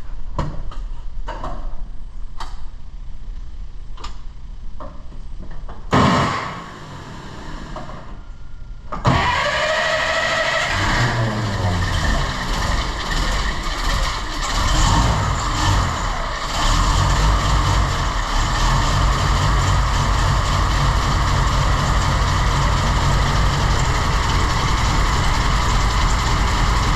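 A series of sharp knocks about twice a second, then a 1939 Dodge TE-32 truck's flathead six-cylinder engine starts, revs up and down for several seconds and settles into a steady idle.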